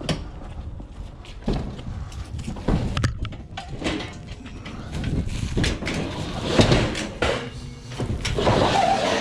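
Irregular knocks, clunks and rattles of scrap metal being handled in and around a van, busier and louder near the end.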